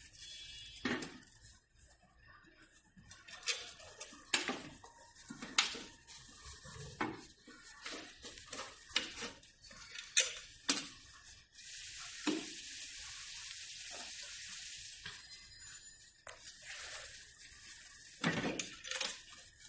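Scattered clicks, knocks and light clatter of parts and tools being handled while working on an electric scooter's battery, with a steady hiss for about three seconds past the middle and a faint constant high whine underneath.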